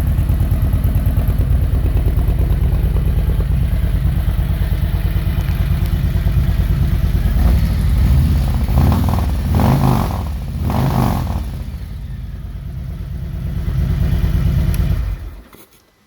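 Harley-Davidson Milwaukee-Eight 117 V-twin running loud through an unbaffled S&S Sidewinder 2-into-1 exhaust: a steady pulsing idle, blipped a few times in the middle, then cut off about 15 seconds in.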